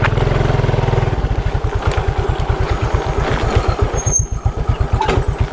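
Motorcycle engine idling with a steady low putter, settling from slightly higher revs to an even idle about a second in.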